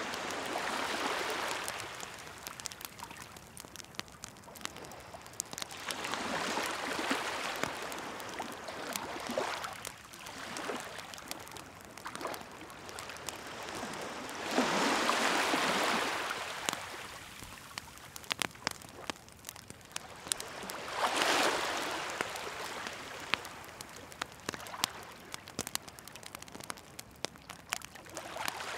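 Waves washing ashore in slow swells every few seconds, over the steady pops and crackles of a burning wood bonfire.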